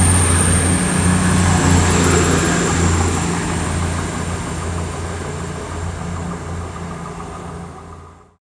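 Class 222 Meridian diesel-electric multiple unit's engines running with a low, steady drone as the train pulls out, gradually fading. The sound cuts off abruptly near the end.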